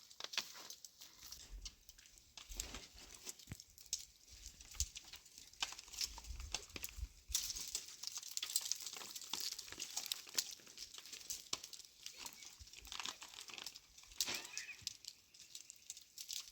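Irregular rustling and crackling made up of many small clicks, the sound of dry leaves and twigs being handled.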